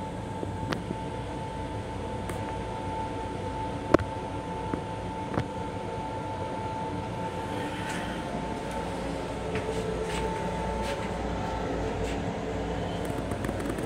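Interior noise of a Long Island Rail Road M7 electric railcar in service: a steady rumble and hiss with a constant high-pitched tone. A few sharp clicks and light rattles sound over it, the loudest click about four seconds in.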